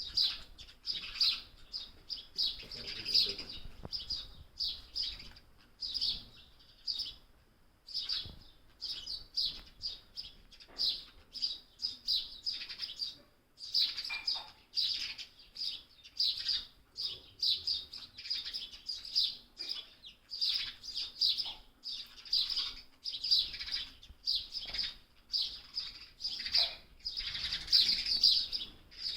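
Young small bird chirping over and over in short, high chirps, several a second, with a couple of brief pauses.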